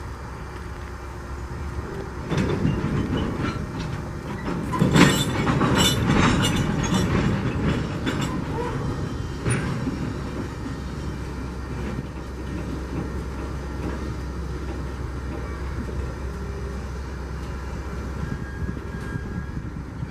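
Train rolling past, its wheels clacking over rail joints in a run of sharp knocks, loudest about five seconds in, over a steady low rumble that carries on after the clacking fades.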